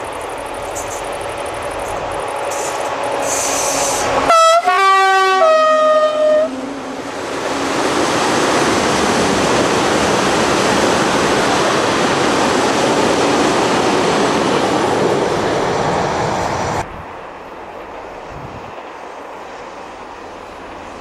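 Freight train approaching with a rising rumble; the locomotive sounds two blasts on its horn, then the flat wagons loaded with steel coils roll loudly past. About 17 s in the sound drops suddenly to a quieter outdoor background.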